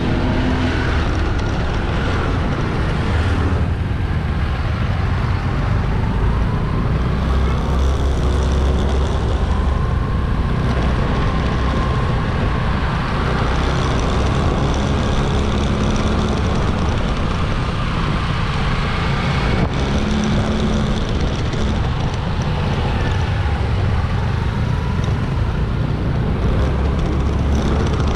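Motorbike riding through busy town traffic: its engine running steadily under a heavy low rumble of road and wind noise, with other vehicles passing around it.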